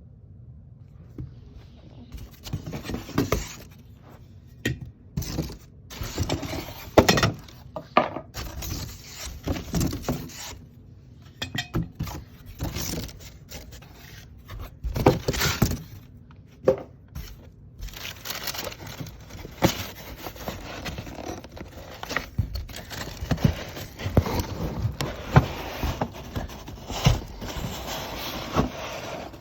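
A vacuum cleaner being unpacked and handled, with irregular knocks, clicks and scrapes of hard parts. The motor is not running.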